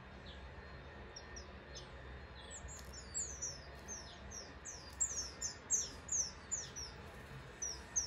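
Birds chirping: short, high calls that slide downward in pitch, scattered at first, then a quick run of chirps from about three seconds in that is loudest near the end.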